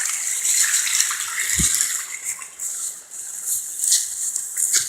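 Stream water running and splashing over rocks, a steady rushing hiss, with one short low bump about a second and a half in.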